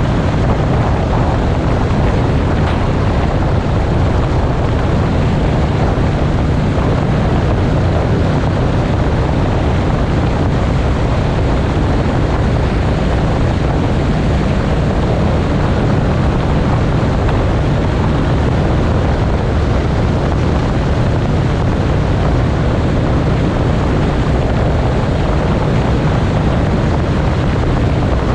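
Motorcycle riding at a steady speed: wind rushing over the microphone over a constant deep rumble of engine and road noise.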